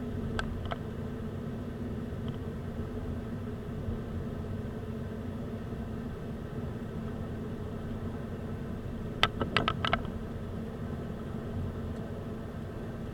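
Car on the move: a steady engine and road hum, with a quick run of four or five clicks or rattles about nine seconds in.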